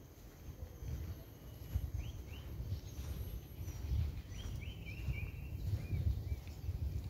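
Birds chirping in short rising and falling whistles, a few at a time, over irregular low thumps and rumble.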